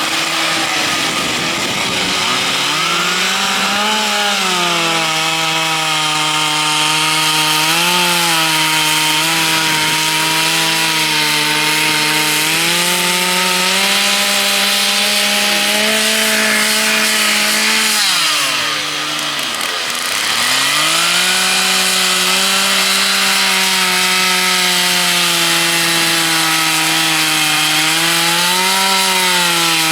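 Two-stroke chainsaws carving into a log, the engine held at high revs under load with small rises and falls in pitch; about two-thirds of the way through the revs drop briefly and then climb back up as cutting resumes.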